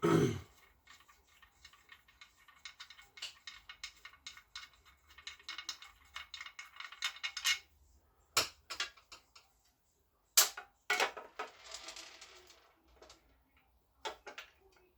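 Hand tools and small metal parts clicking and clinking while a motorcycle is being worked on, with a dense run of light clicks and a few sharper metal knocks.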